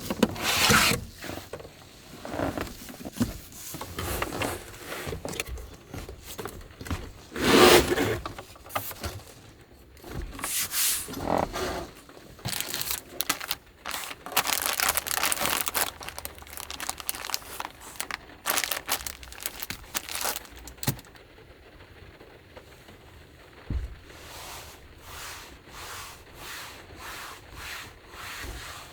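Irregular rubbing and scraping strokes, then a steady back-and-forth rubbing about twice a second near the end.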